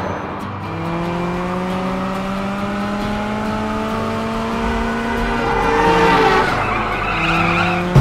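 Sports car engine sound effect revving, its pitch climbing slowly over several seconds, then tyres squealing in the second half.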